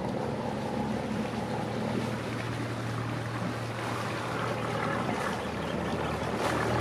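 Motor boat engine running steadily at low speed, a constant low hum, under a hiss that grows louder toward the end.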